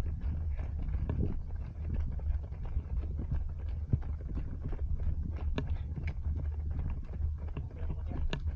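Running footfalls of a group of runners, many irregular sharp steps, over a steady low rumble of wind and movement on a body-worn action camera.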